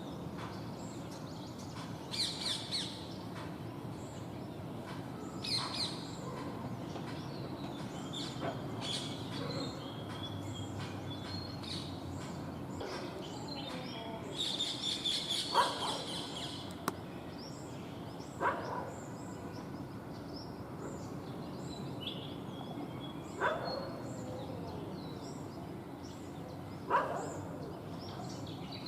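Small birds calling and chirping in scattered short bursts, with a denser spell of chirping about halfway through. A few short, sharp, louder sounds stand out over a low steady background noise.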